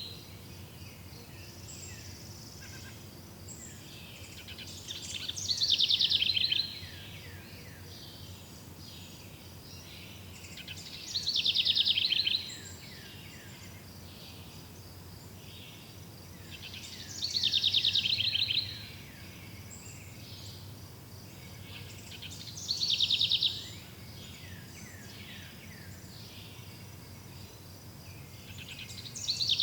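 A songbird singing the same descending trilled phrase over and over, each phrase about a second and a half long and repeated about every six seconds. Between phrases a faint steady high chirring of insects runs underneath.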